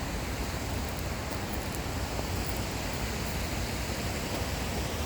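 Small waterfall, a drop of about five to six feet, pouring into a creek pool: a steady rushing of water.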